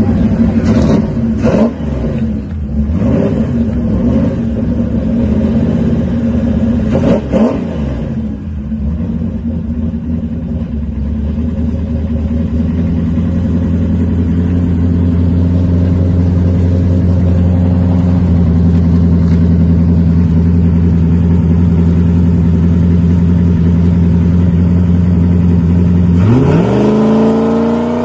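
Drag-racing car engine running loud, with a few quick revs in the first eight seconds, then held at a steady drone. About 26 seconds in, its pitch climbs fast as the car accelerates hard.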